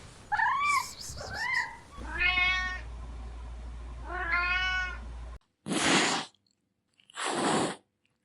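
Domestic cats meowing: two short mews that rise and fall in pitch, then two longer drawn-out meows. Near the end come two short harsh noisy sounds with no clear pitch.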